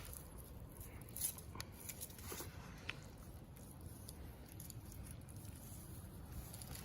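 Faint handling noise: a few light clicks and rustles as the turkey and tape measure are moved, over a low steady rumble.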